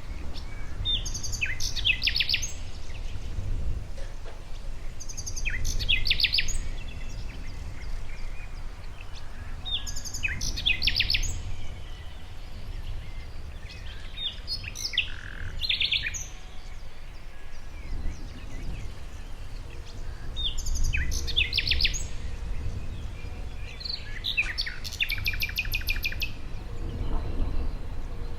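Songbirds singing short trilled phrases of rapidly repeated high notes, one phrase every four or five seconds, over a steady low rumble.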